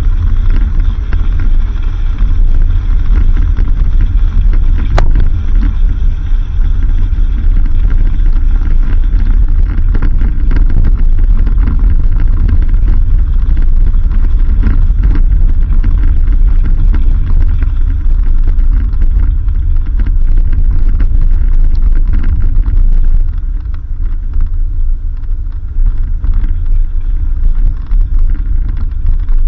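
Vehicle driving along a dirt road, a steady low rumble of engine and tyres. It eases off somewhat for a few seconds near the end.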